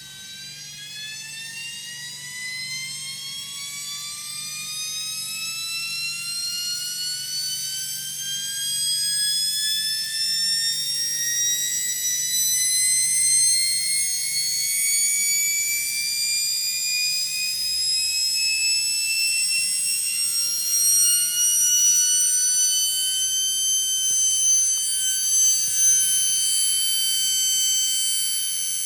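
Selni brushed motor of a Gorenje washing machine speeding up. Its whine climbs steadily in pitch for about twenty seconds, then holds at a steady high pitch near the end, over a faint low hum.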